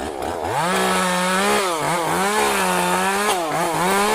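Chainsaw engine revving at high speed, its pitch dipping and climbing back a few times as the throttle is let off and opened again.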